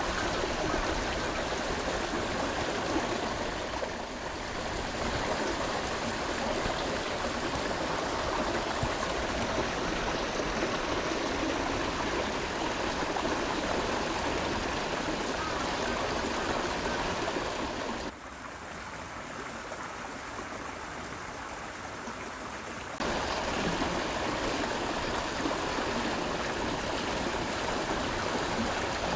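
Flowing water of a stream or channel, a steady rushing. It drops quieter and duller for a few seconds past the middle, then comes back at full level.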